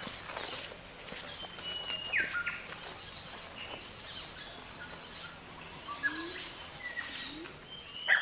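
Wild birds singing: clear whistled notes that hold and then drop in pitch, one every second or two, with higher chirps between them. A louder whistled phrase comes near the end.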